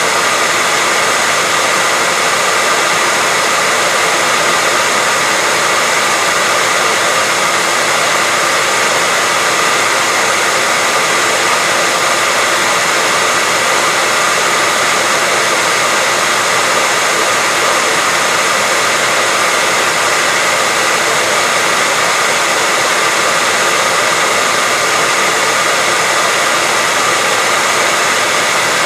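Hair dryer running steadily: a constant, even rush of air with a faint steady whine on top.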